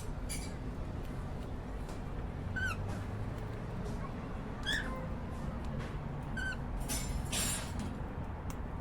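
Cockatiel giving short chirps, three times about two seconds apart, with a brief scratchy rustle near the end.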